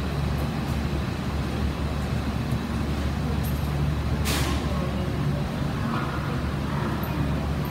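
Tobu 500 series Revaty electric train pulling out of the platform, a steady low running hum, with a short air hiss about four seconds in.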